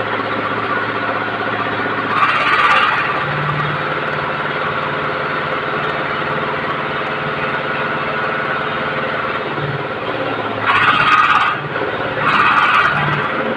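An engine runs steadily throughout. Short bursts of hissing noise come about two seconds in and three times near the end.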